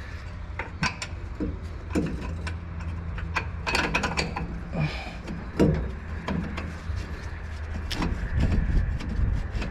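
Irregular clicks and metallic knocks of hand tools and parts as a truck's rear shock absorber is fitted back in place, over a steady low hum.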